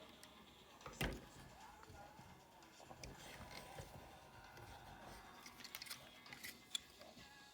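Faint handling of a plastic transforming toy figure as its joints are moved. There is one sharp click about a second in, then scattered small plastic ticks and clicks.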